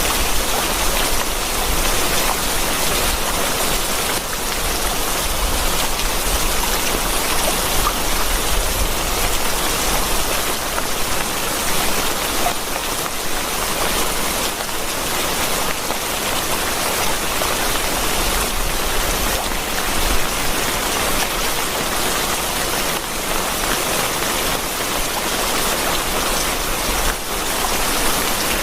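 Steady, heavy rain: a dense, even hiss of falling drops without letup.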